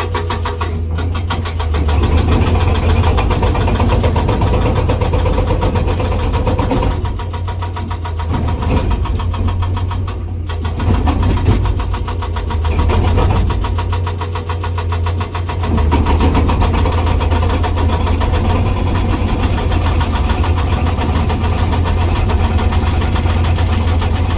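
Komatsu PC200 excavator running with its hydraulic breaker hammering hard rock in a rapid, steady pounding over the engine's low drone, easing off briefly a few times.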